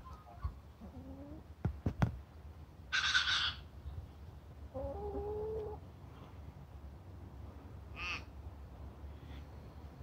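A bird's harsh call, about half a second long, about three seconds in, with a shorter call near the end, over a steady low rumble; a few sharp clicks come just before the first call.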